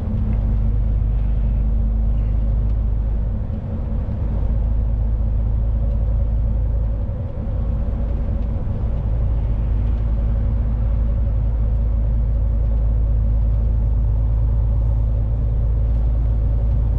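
Fully loaded lorry on the move, heard from the cab: a steady low engine and road rumble with a constant hum above it, dipping briefly twice.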